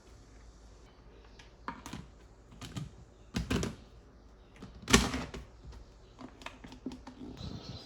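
A run of irregular clicks and knocks, as of objects being handled, with two heavier knocks about three and a half and five seconds in, the second the loudest.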